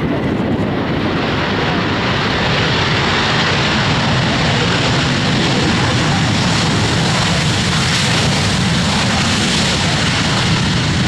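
Airliner engines at close range: a loud, steady rush of engine noise that builds over the first two seconds and then holds.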